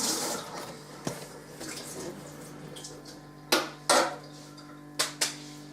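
Kitchen handling sounds while cheese is put into a mug. A short rustle at the start, then four light clinks or knocks of crockery or utensils in two pairs later on, over a steady low hum.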